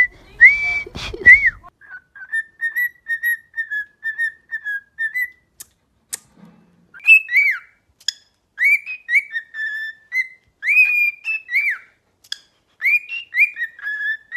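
Cockatiel whistling its song: a run of short, warbling notes, then after a brief pause about six seconds in, louder whistled notes that rise and fall in pitch.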